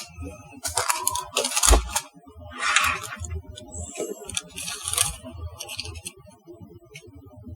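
Kitchen handling noises: about four short rustling scrapes, with a soft bump near two seconds in.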